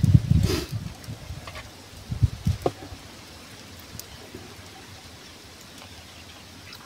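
Wind buffeting the microphone in irregular low rumbling gusts for the first three seconds or so, with a couple of light clicks, then settling to a faint steady hiss.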